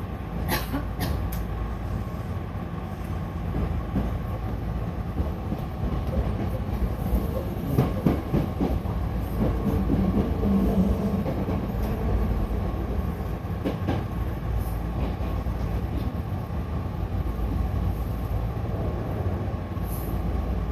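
Hankyu local electric train running between stations: a steady rumble of wheels on rail, with a few sharp clicks near the start and again around eight and fourteen seconds in.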